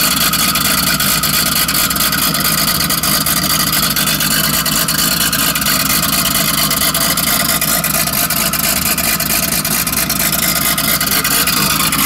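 Turbocharged VW Golf Mk4 VR6 engine idling loudly and steadily, with a rapid, even pulse and no revving.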